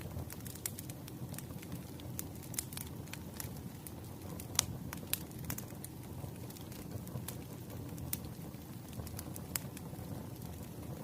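Wood fire burning, a steady low rumble of flames with irregular sharp crackles and pops from the burning logs, one louder pop about halfway through.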